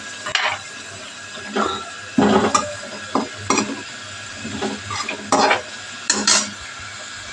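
A metal utensil stirring and scraping in a pan of hot oil where litti are frying, in a series of irregular clinks and scrapes over a steady sizzle.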